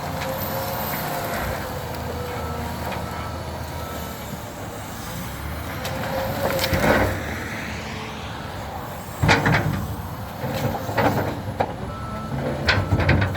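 Loader tractor engine running steadily, with a few faint short beeps about three seconds in. In the second half come several loud knocks and clatters from the loader handling logs.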